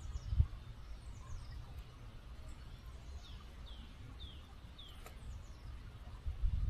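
A small songbird calls a quick run of four falling chirps a little past the middle, with a few thinner, higher chirps earlier, over the faint steady hiss of a small river flowing. Low rumbles rise briefly near the start and again near the end.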